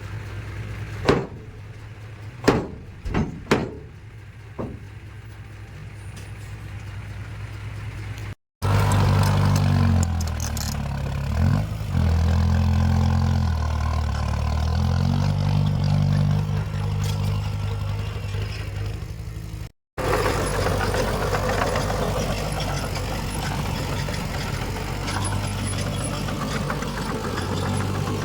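Heavy diesel earthmoving machinery running, in three abrupt sections. First a low engine hum with five sharp knocks in the first five seconds. Then a louder engine whose pitch steps up and down. Then a steadier, noisier engine run.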